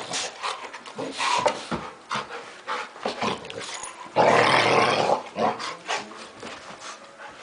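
Puppies play-fighting: small growls with scuffling, loudest for about a second around four seconds in.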